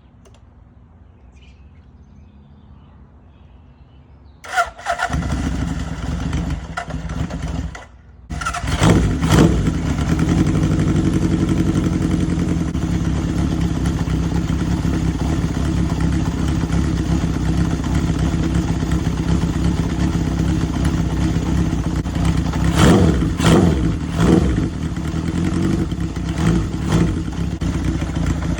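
Honda CB750's air-cooled inline-four engine cold-started: it catches about four and a half seconds in, dies away briefly near eight seconds, catches again and settles into a steady idle, with a few short rises in revs near the end.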